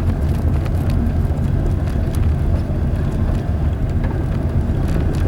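Vehicle driving slowly on a dirt levee road, its engine and tyres making a steady low rumble with a few faint ticks.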